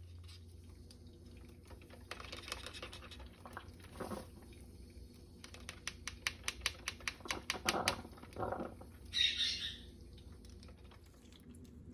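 A run of quick, light clicks and taps, about five a second at their densest, with a short rasping burst near the end.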